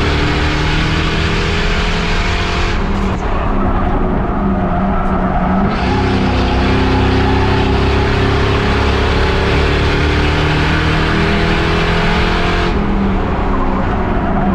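Race car engine run hard on a restart, its pitch rising and falling as the throttle works. The note eases off twice, about three seconds in and near the end.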